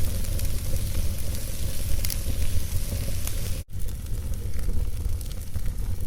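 Wood fire burning in a fireplace: a steady low rumble and hiss, with scattered sharp crackles and pops. The sound cuts out for an instant just past halfway.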